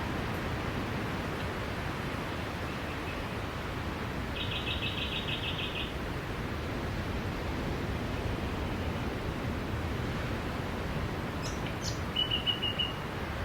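Steady wash of sea surf with small birds calling over it: a rapid run of high chirps about four seconds in, and a few short chirps and a brief trill near the end.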